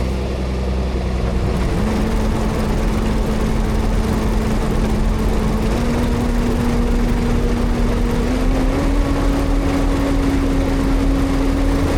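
Tractor engine running steadily, its tone stepping up in pitch three times.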